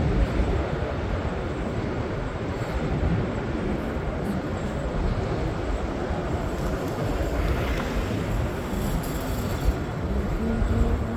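PATH rapid-transit train running, a steady low rumble with rail noise, with a brief click about ten seconds in.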